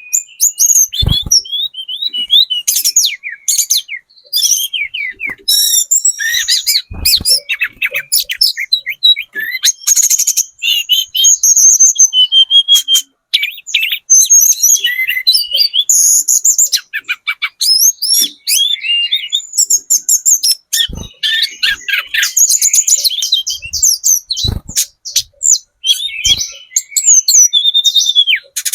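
Tledekan gunung (trotol) singing a fast, busy stream of high chirps and trills with hardly a pause, with a few brief low thumps here and there.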